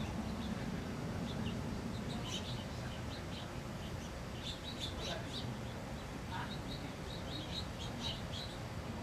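Small songbirds chirping in many short, high notes, over a steady low background rumble.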